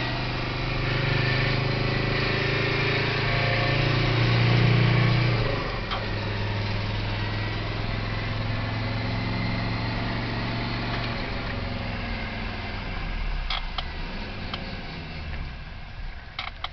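Mercedes-Benz turbo diesel in a Mazda pulling under boost with propane injection, the engine note growing louder and then dropping sharply at a gear change about five and a half seconds in. It runs steadily until the throttle eases off and the engine quietens near the end. The owner heard the propane making it ping a little.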